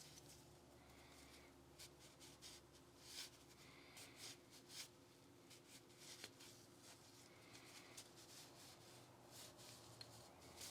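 Faint scrubbing and rubbing strokes with a few light clicks, from parts of a Glock 19 Gen 5 pistol being cleaned by hand.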